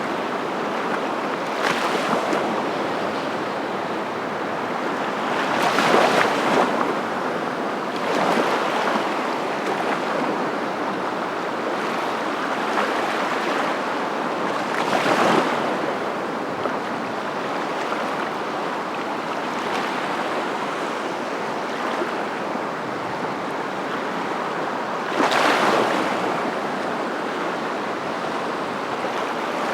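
Steady rush of surf, with louder swells of breaking waves every few seconds, strongest about 6, 15 and 25 seconds in.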